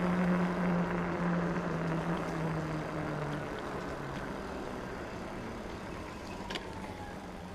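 Road traffic: a motor vehicle's engine hum and tyre noise fade away over the first few seconds as it drives off, leaving a steady, quieter traffic hiss.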